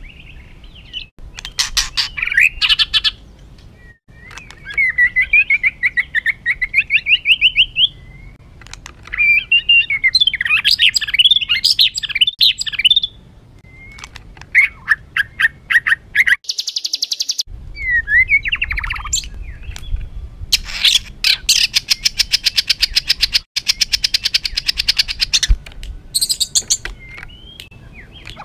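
White-rumped shama singing a harsh, agitated song: varied phrases of whistled slides and quick trills, then long runs of fast rattling notes, with a brief break about two-thirds of the way through. A low hum runs underneath.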